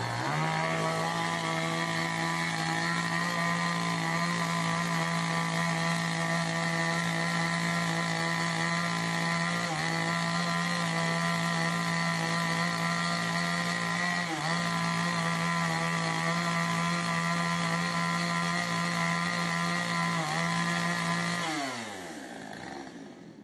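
Two-stroke chainsaw held at full throttle, its high engine note dipping briefly a few times, then winding down and fading near the end.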